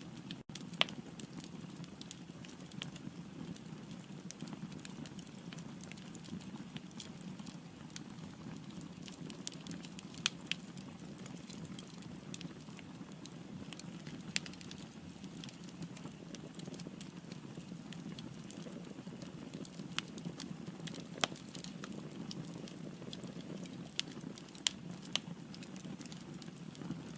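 Firewood burning in a fireplace: a steady low rush of flames with scattered crackles and a few sharper pops.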